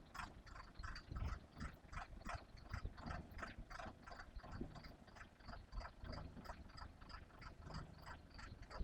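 Diesel concrete mixer pump machinery running, with a regular clacking about three times a second over a low rumble, likely as the hopper is lowered to the ground.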